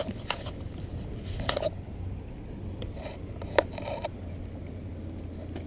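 Catamaran's diesel engine running slowly with a steady low hum, overlaid by a few knocks and clatters, the sharpest about three and a half seconds in.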